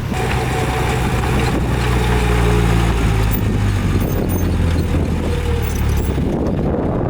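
Heavy earthmoving machine's diesel engine running with a steady low hum, with a few faint high squeaks in the middle and near the end.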